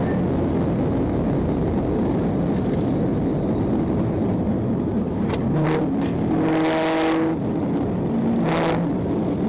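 Police patrol car in a high-speed pursuit: steady engine, road and wind noise. In the second half come a few short, pitched blasts, the longest lasting about a second.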